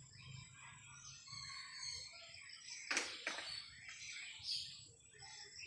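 Evening chorus of many small birds chirping at once, with overlapping short calls, and a louder harsh double call or rasp about three seconds in.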